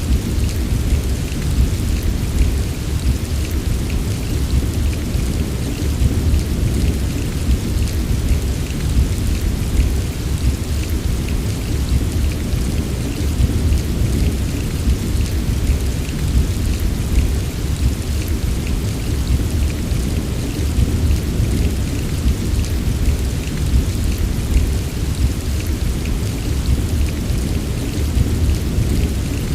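Heavy rain falling steadily, with fine drop patter on top and a constant deep low rumble underneath.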